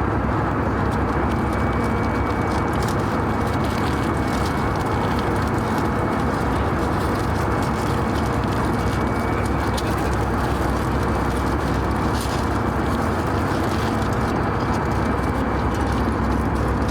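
Steady cabin noise of an Airbus A319 airliner in flight: the even rush of engines and airflow with a faint steady whine above it. A few light clicks come and go over it.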